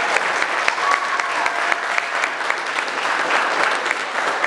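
Small audience applauding, steady clapping, with a few faint held tones in the first second or so.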